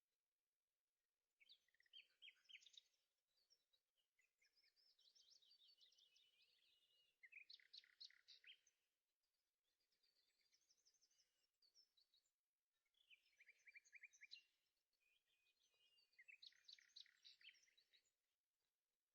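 Faint birdsong: short phrases of rapid chirps and trills, repeated every couple of seconds with brief pauses between them.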